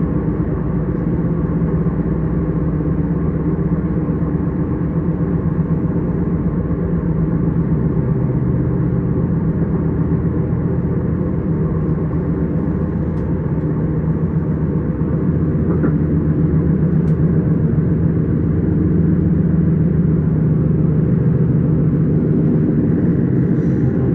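S-Bahn train running along the line: a steady low rumble with a humming drone, growing a little louder in the second half.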